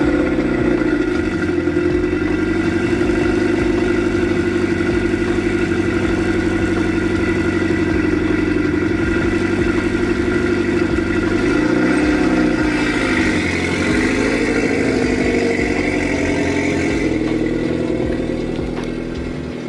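A 2010 Mitsubishi Lancer Evolution X GSR's turbocharged four-cylinder, fitted with an aftermarket exhaust, idling high and steady just after a cold start. Past the middle the pitch swings up and down briefly twice.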